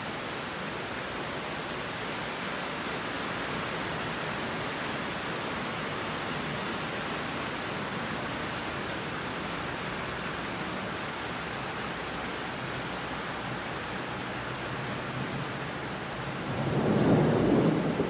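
Heavy rain falling steadily, with a low rumble of thunder swelling up near the end.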